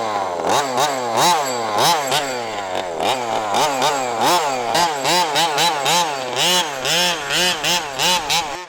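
HPI Baja 5B RC buggy's 29cc two-stroke engine revving up and down over and over in throttle blips, quickening to about two a second, as it fights its way through snow and mud.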